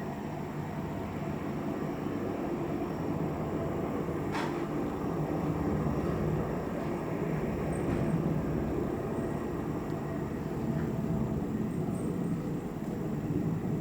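Military helicopters' engines and rotors running in a steady, loud rumble with a low drone, during a night landing. A single sharp click about four seconds in.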